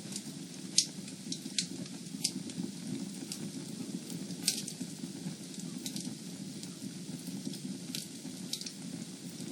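Fire in a fireplace crackling: a steady low rumble of flames with scattered sharp pops, the loudest a little under a second in and about four and a half seconds in.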